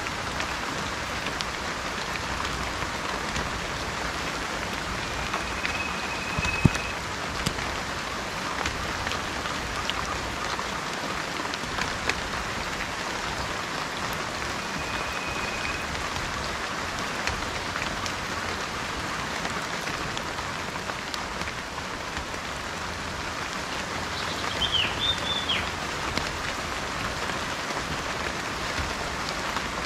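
Steady rain falling, with scattered drop clicks and a single low thump about seven seconds in. A few short, thin bird whistles come through the rain, and a quick warbling bird call sounds near the end.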